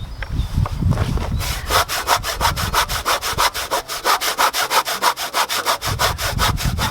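Hand saw cutting through a piece of softwood, in fast, even back-and-forth strokes, about five or six a second, quickening about a second and a half in.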